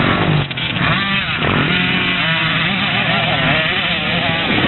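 Several motocross bikes racing, their engines revving up and down so that their pitches rise, fall and overlap.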